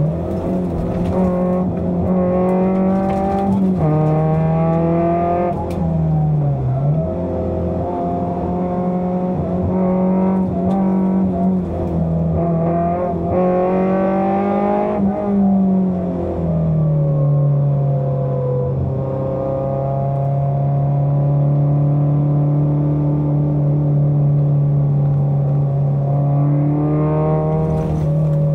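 Fiat Seicento rally car's engine heard from inside the cabin, revving hard with its pitch climbing several times and dropping briefly between climbs, then running at a steadier, lower pitch for the last third.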